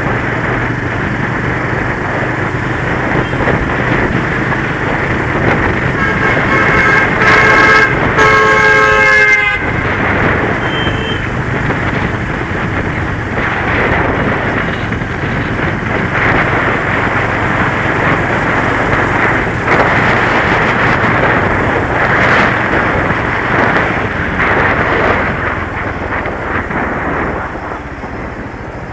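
Motorcycle riding along with its engine running under heavy wind rush on the camera microphone. About six seconds in, a vehicle horn honks for roughly three seconds.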